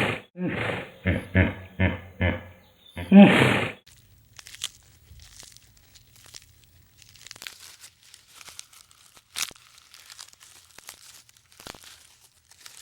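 An animal giving a run of short pitched calls, then one longer call about three seconds in. After that come soft crunching and rustling with scattered clicks.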